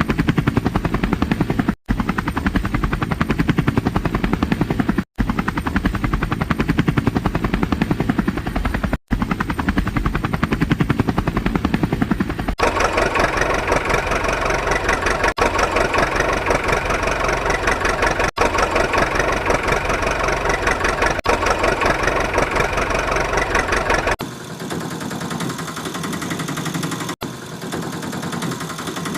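A motor running steadily with a rapid pulsing buzz, cut into several takes. About halfway it becomes a brighter, higher-pitched whir, and it drops to a quieter run near the end.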